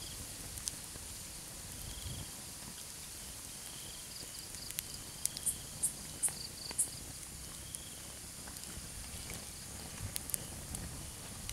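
Night insects chirping steadily, with a campfire crackling: a cluster of sharp pops about halfway through and a few more near the end.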